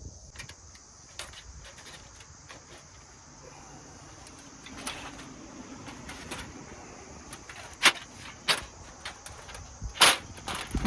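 Steady high-pitched chorus of crickets or other insects, with scattered clicks and knocks of handling objects, a few louder ones near the end.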